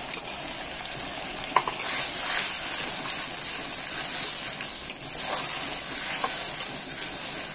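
Tomato paste sizzling in hot mustard oil in a steel karahi as it is fried down, stirred with a metal spatula that scrapes and clicks against the pan a few times. The sizzle grows louder about two seconds in and again around five seconds.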